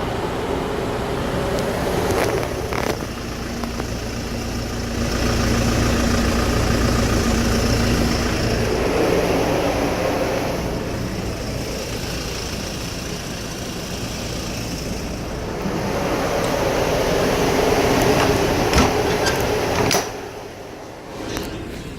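Hyundai Porter II truck running, with a steady mechanical noise that grows louder and softer over several seconds and drops away sharply near the end.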